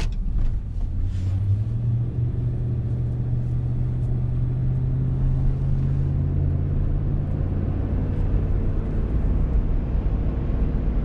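Truck engine and road noise heard from inside the cab while driving. The engine note steps up about a second and a half in, then holds steady.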